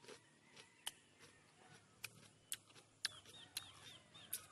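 Quiet scattered sharp clicks, with a few faint short chirps from a small bird late on.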